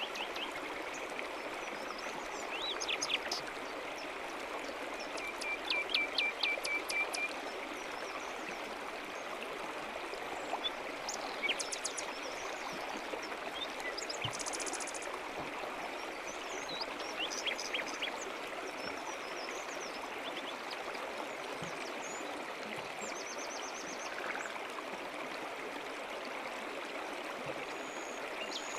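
A stream running steadily, with songbirds chirping now and then over it; a quick series of bird notes comes about six seconds in.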